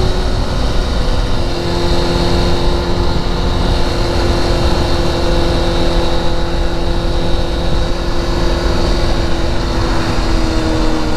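Vehicle travelling at a steady highway cruise: an even engine drone whose pitch drifts slightly, over a heavy low rumble of wind and road noise.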